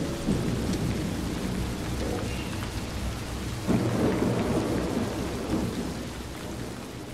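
Steady rain with low rolling thunder, a rumble swelling about four seconds in, the whole slowly fading out.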